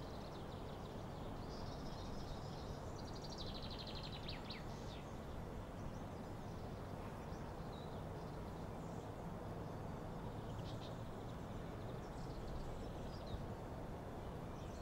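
Forest ambience: a steady low background hiss with faint bird calls, including a rapid trill about three to four seconds in and a few short chirps later.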